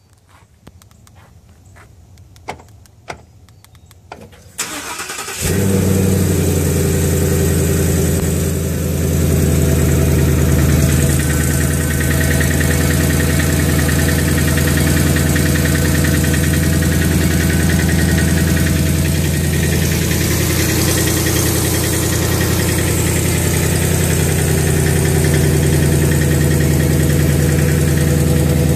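A few sharp clicks, then a car engine cranks briefly and starts about five seconds in, settling into a steady idle. The running engine carries the rattle the recording was made to capture.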